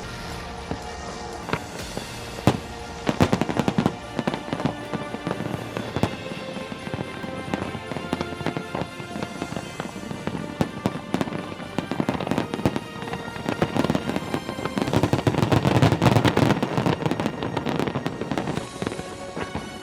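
Fireworks display: many sharp bangs and crackles going off in quick succession over music with held tones, building to a dense barrage about three quarters of the way through.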